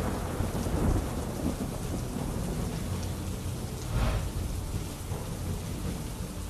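Steady rain with low rumbling thunder, swelling louder about four seconds in.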